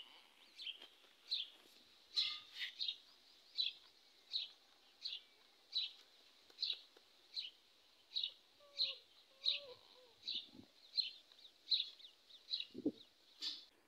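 A bird chirping over and over: short high chirps, evenly spaced about one every two-thirds of a second.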